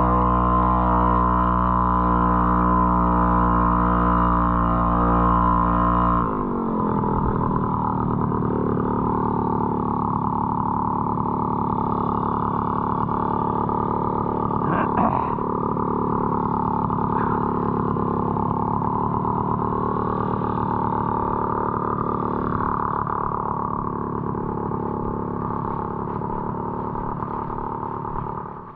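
Puch Maxi moped's 49 cc single-cylinder two-stroke engine running at a steady speed under way. About six seconds in its pitch drops as the throttle eases, and it carries on at a lower, less even note.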